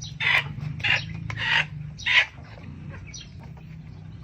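A chicken squawking: four loud, harsh cries about half a second apart, then quieter calls. A steady low hum runs underneath.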